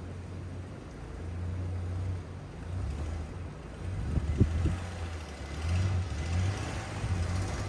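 Pickup truck engine running, its level rising and falling with the revs, with a few sharp knocks about four seconds in.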